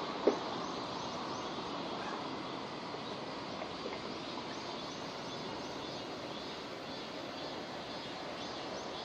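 Steady rain falling, an even hiss, with one sharp knock about a third of a second in.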